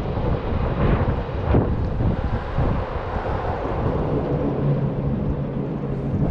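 Wind buffeting an action camera's microphone during a bike ride in city traffic, with a low traffic rumble. A steady low hum comes in about halfway through.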